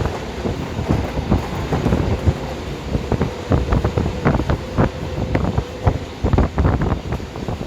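Wind buffeting the microphone in loud, irregular low gusts, with a faint steady tone through the middle.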